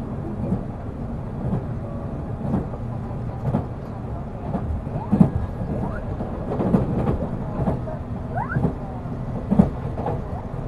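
A passenger train running, heard from inside the carriage: a steady low rumble with sharp clacks of the wheels over rail joints about once a second.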